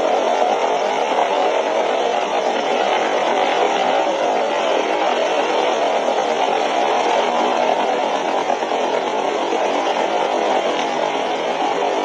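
A steady, loud rushing noise with no clear pitch and no rhythm.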